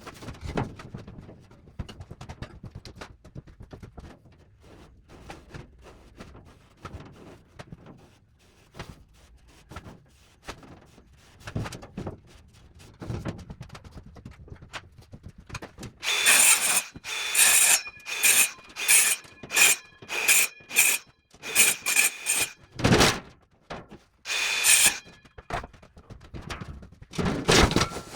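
Workshop noise: scattered light knocks and clatter of metal parts being handled. From about 16 s in comes a string of loud, harsh bursts, each a fraction of a second long, from a power tool cutting or grinding metal, with a ringing tone over them.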